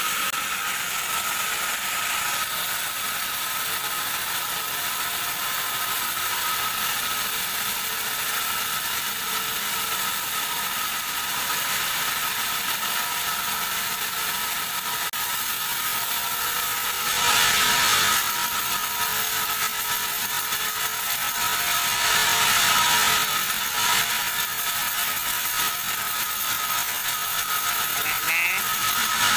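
Large sawmill band saw running, cutting teak, with a steady high whine and mechanical rattle. It grows louder for about a second roughly 17 seconds in and again around 22 seconds in.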